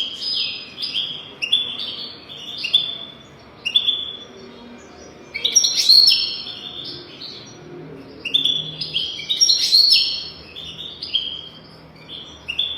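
European goldfinch singing: a run of short, quick twittering notes, breaking into denser, faster passages about five and nine seconds in.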